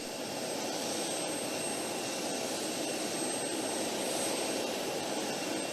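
Steady aircraft turbine engine noise, an even rushing hiss with a faint high whine that fades out about two thirds of the way through.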